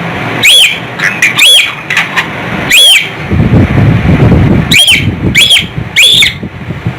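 Cockatiel calling: six loud, sharp calls, each rising and then falling in pitch, coming in irregular pairs and threes, with a low rumbling noise underneath from about halfway in.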